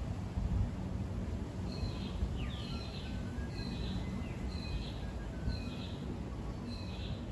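A bird repeating a short chirping call about once a second, six times, over a steady low background rumble.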